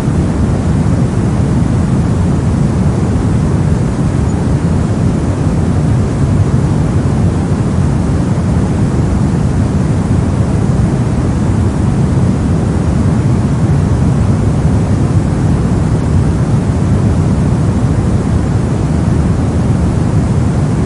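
Steady soft noise, a continuous low rushing hiss that is heaviest in the bass and falls away in the highs, with no change or events.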